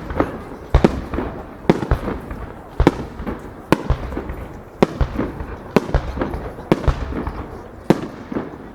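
Aerial firework shells bursting, a sharp bang about once a second, each followed by a rumbling echo, with smaller pops in between.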